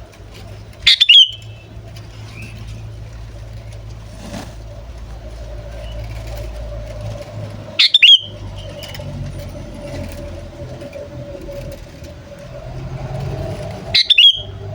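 Sooty-headed bulbul (kutilang) giving its short call phrase three times, about six seconds apart, over a steady low rumble like distant traffic.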